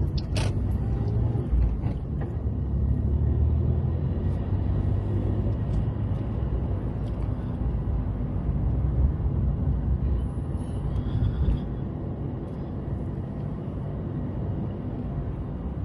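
Inside a moving car: steady low engine and road rumble as the car pulls away and drives on.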